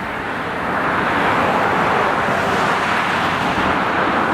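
Road traffic going by: a steady noise of passing vehicles that grows a little louder over the first second.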